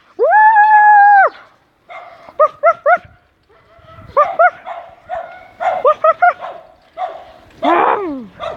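Small dog barking at a passing bicycle in clusters of short, quick, high-pitched yips, with a long steady high whine in the first second or so.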